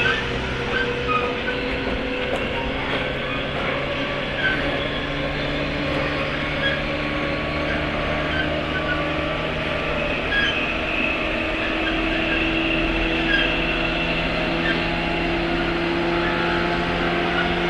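JR West 103 series EMU motor car (MoHa 102) running, its MT55 traction motors humming under the rumble of the wheels and rising slowly in pitch as the train gathers speed, heard from inside the car.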